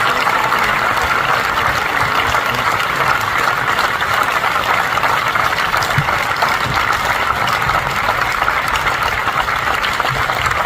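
Large concert audience applauding steadily, a dense even clatter of many hands at the end of a song.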